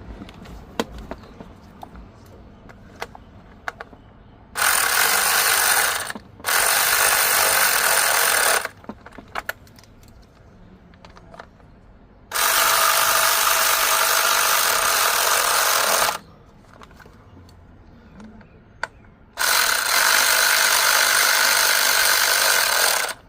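A handheld power tool, such as a cordless ratchet, running in four bursts of about two to four seconds each as it spins fasteners, with light clicks and handling noises between the bursts.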